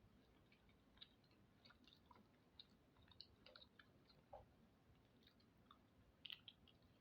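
Faint mouth sounds of a person eating: soft chewing with scattered wet clicks, irregularly spaced, and a short cluster of louder clicks near the end.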